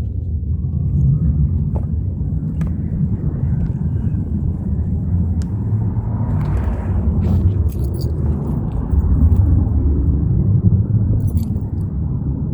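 Royal Enfield Himalayan motorcycle on the move: a steady, loud low rumble of engine and wind on the helmet or body microphone, with a few faint clicks.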